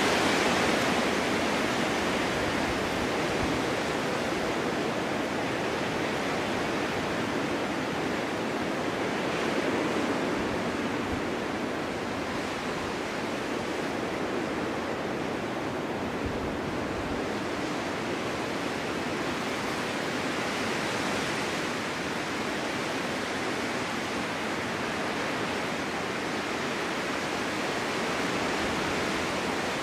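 Snowstorm wind blowing as a steady, even rushing hiss, a little louder at the start, with a brief swell about ten seconds in.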